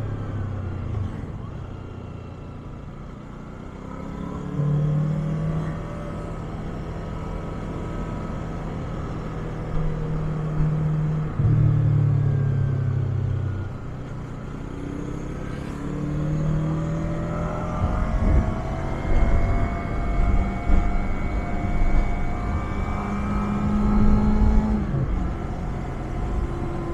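Yamaha MT-25's parallel-twin engine through its stock muffler, accelerating through the gears: the pitch climbs several times and drops back at each shift, easing off and dipping briefly a couple of seconds in. A low rumble of wind on the microphone joins in the second half.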